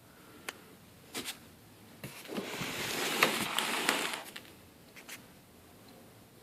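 Packaging being handled: a few sharp clicks, then about two seconds of rustling and scraping with clicks in the middle, then more clicks.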